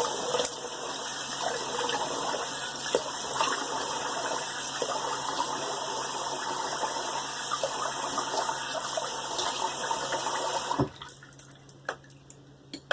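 Cold water running from a tap into a sink for a post-shave face rinse, a steady rush that cuts off suddenly near the end when the tap is turned off.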